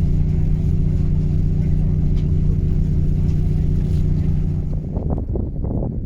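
A motor runs with a steady low drone. About five seconds in, the drone gives way to irregular low knocks and rustling.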